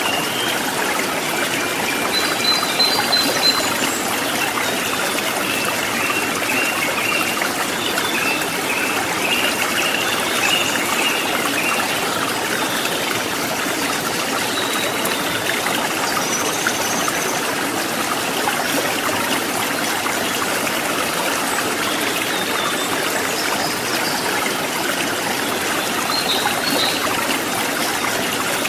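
Stream water babbling and trickling steadily over rocks, with a few faint high chirps now and then.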